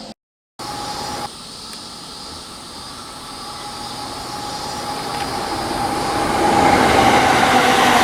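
Electric train approaching on the line, its noise growing steadily louder over several seconds, with a steady high tone running through it. The audio drops out briefly near the start and cuts to a new stretch just over a second in.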